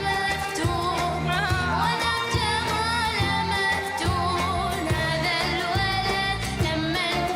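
A girl singing a melodic song with a wavering voice over instrumental backing with a steady beat.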